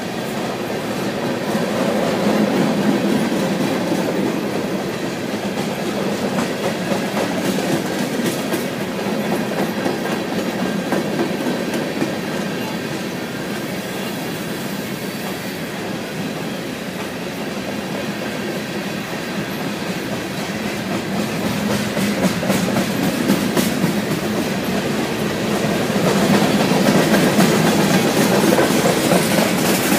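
BNSF freight train's covered hopper cars rolling past, their wheels clicking over the rail joints over a steady rumble. It swells louder soon after the start and again near the end.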